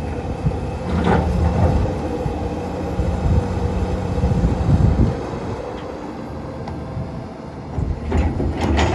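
Komatsu PC210LC-10 excavator running, its diesel engine and hydraulics working steadily as the bucket and thumb handle broken concrete. Sharp clanks of concrete about a second in and again near the end.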